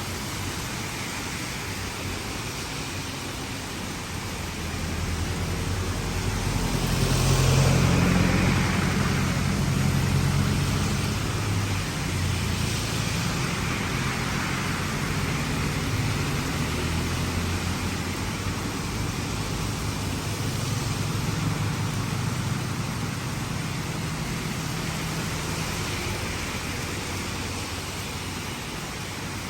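Vehicles driving past through heavy rain on a flooded street, their engines rising and fading over a steady rain hiss; the closest pass is the loudest, about seven seconds in, and a few quieter ones follow.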